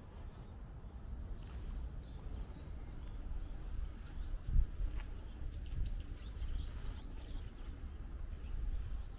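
Birds calling in short high chirps, most of them clustered past the middle, over a low outdoor rumble, with a single dull thump a little before the chirps.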